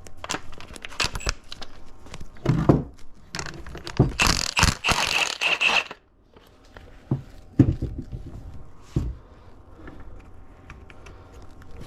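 A hand wrench and metal transmission parts clicking, knocking and scraping as a 12 mm bolt on the shift selector is worked loose. A dense, busier stretch comes in the middle and stops abruptly, followed by sparser clicks.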